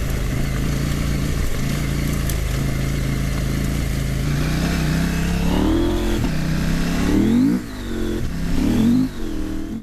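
Husqvarna Norden 901's parallel-twin engine running under way, then revving up and dropping back three times in the second half as the throttle is worked.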